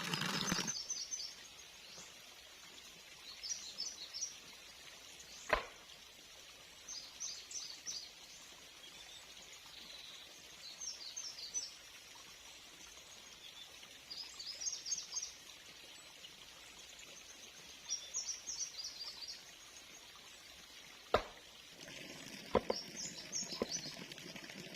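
A bird singing a short phrase of high, quick chirps, repeated about every three to four seconds, with a few sharp clicks in between.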